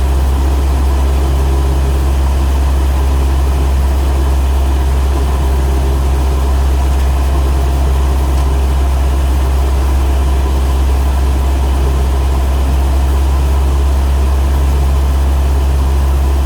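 Cessna light aircraft's piston engine and propeller droning steadily, a strong low hum that holds one pitch throughout.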